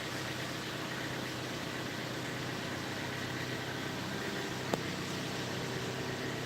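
A vehicle engine idling steadily, with a single sharp click about two-thirds of the way through.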